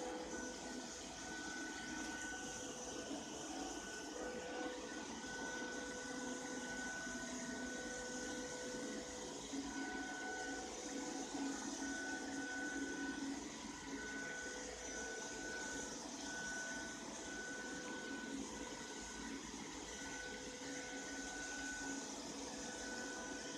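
Ropo Glass robot vacuum cleaner running: a steady whir from its motor and brushes, with a high whine that keeps cutting out and coming back.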